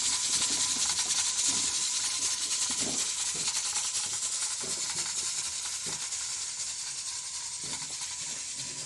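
A steady high-pitched hiss with faint low murmurs beneath it, and a thin steady tone underneath.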